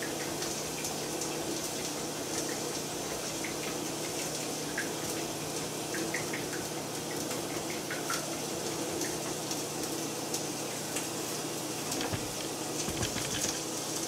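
Asparagus and mushrooms sizzling in oil in a frying pan: a steady hiss with small scattered pops, over a steady low hum, with a few low thuds near the end.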